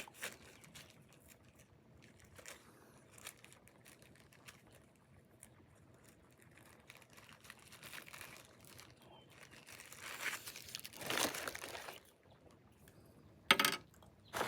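MRE plastic and foil packaging crinkling and being torn open by hand, in scattered rustles and clicks. A longer bout of crinkling comes about ten seconds in, and a sharp loud rip or crackle comes near the end.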